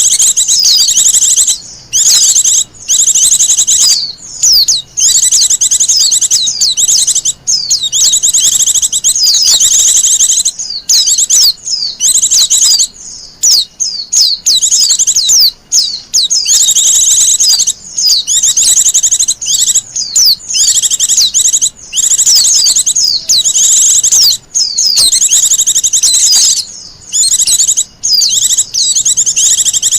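Wild white-eye (pleci) singing a fast, high, twittering song in long, almost unbroken phrases, with short pauses every few seconds.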